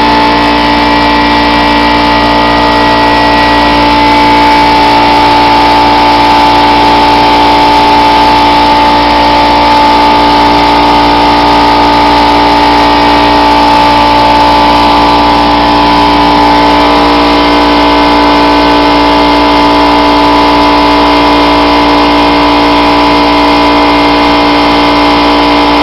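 Air compressor running, loud and steady, with a fixed hum and a constant hiss that don't let up.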